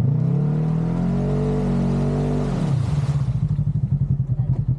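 Side-by-side UTV engine revved from a lumpy idle up to a steady higher speed, held for about two and a half seconds, then dropping back to idle about three seconds in.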